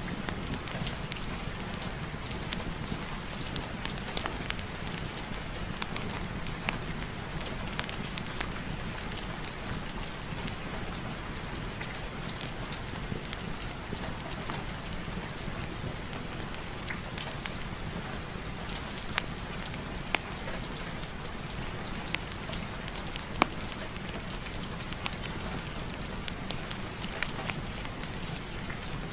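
Steady heavy rain, with scattered sharp ticks and pops over the even hiss.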